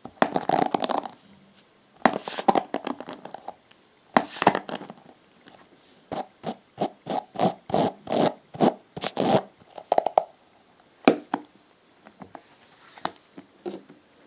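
Hairbrush bristles scratched and scraped close to the microphone: a few bursts of scratching, then a run of short strokes at about three a second, then a few scattered clicks near the end.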